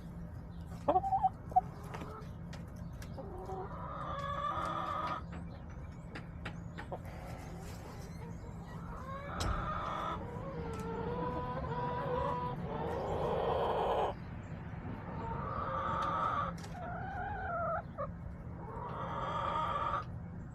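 Backyard hens clucking and giving drawn-out, pitched calls, one after another. A couple of sharp knocks sound about a second in.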